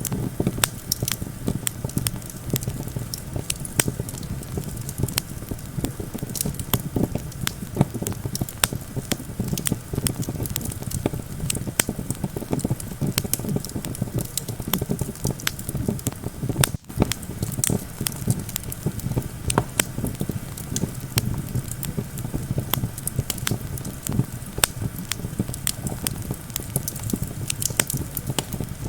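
Campfire crackling with many sharp pops, over a steady low rumble of wind.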